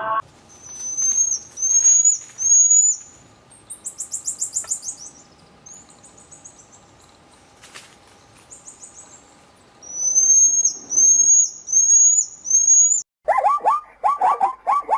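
A songbird calling: short, high, upward-sweeping whistled notes in runs of about five, with a fast buzzy trill about four seconds in. Near the end the recording switches abruptly to another animal's rapid, repeated yelping calls, lower in pitch.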